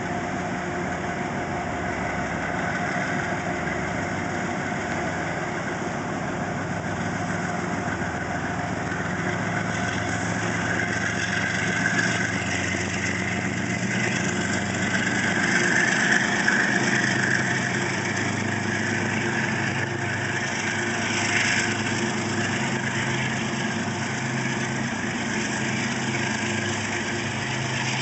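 Commuter train's diesel locomotive running steadily with the train standing or moving slowly, growing somewhat louder about halfway through and then easing back.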